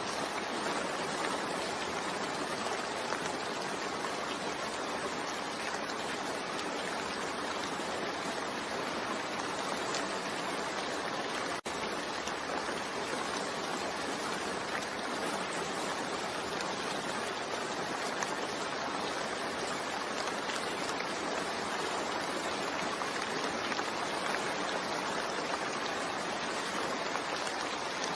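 Steady rain, a constant even hiss that briefly cuts out for a split second a little under halfway through.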